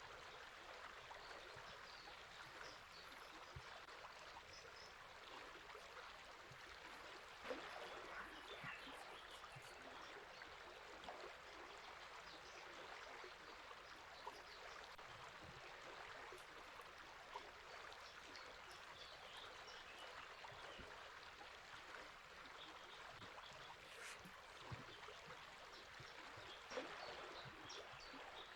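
Faint, steady rush of a flowing river, with small birds chirping faintly now and then over it.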